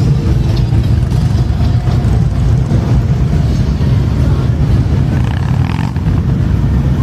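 Motorcycle engines running with a steady, loud low rumble.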